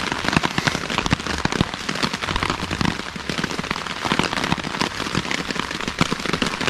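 Rain pattering steadily on a tarp, a dense spray of small ticks heard from underneath it.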